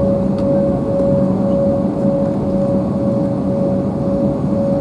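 Embraer 190's GE CF34-10E turbofan engines heard inside the passenger cabin: a steady roar with a constant whine running through it.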